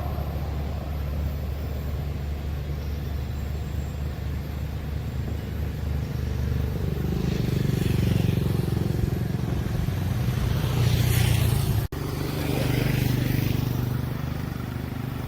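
Road traffic: a steady low engine hum, then cars and motorcycles passing close by in succession from about seven seconds in, with a sudden brief break near the end.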